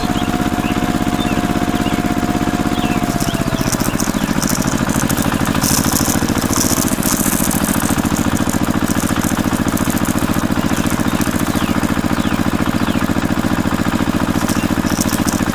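Small engine of a DIY mini tractor running steadily, with rapid even pulses, while driving a homemade paddy thresher; a high whine dips and fades about three to four seconds in.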